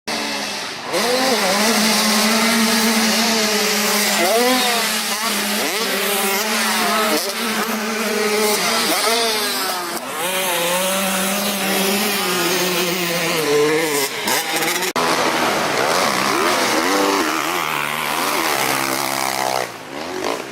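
Motocross motorcycle engines revving, the pitch climbing and dropping over and over as the throttle is worked; the sound changes abruptly about fifteen seconds in.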